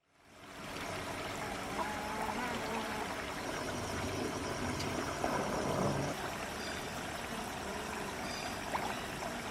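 Steady rush of flowing water, like a stream or trickle, fading in at the start, with a couple of faint short whistle-like sounds over it.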